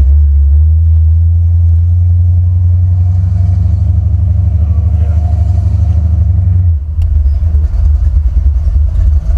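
Buick 455 Stage-1 V8 in a 1987 Buick Regal T running with a steady low drone, then about seven seconds in it drops back to an uneven, choppier rumble.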